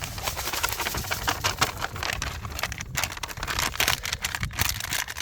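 Dry fishing bait, pellets and small particles, poured into a container for a groundbait mix: a continuous dense rattle of many small clicks.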